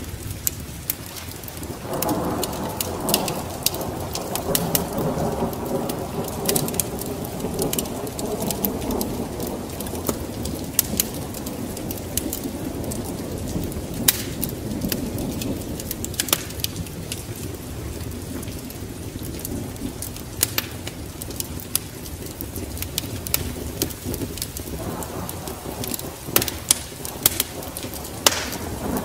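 Rain and rolling thunder over a crackling wood fire, with sharp pops scattered throughout. One long rumble of thunder swells about two seconds in and fades away, and another begins near the end.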